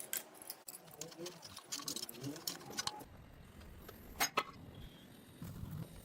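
Light metallic clinks and clicks of steel parts and hand tools being handled at the workbench, with two sharper clinks a little after the middle. A low steady hum comes in about halfway.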